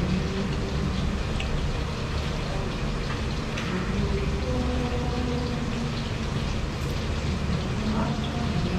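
Steady rain: an even, continuous hiss with a few faint taps.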